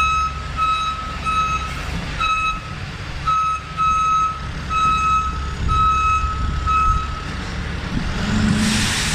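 Back-up alarm of a truck or working machine beeping over its engine running, the beeps coming in uneven runs. A hiss starts near the end.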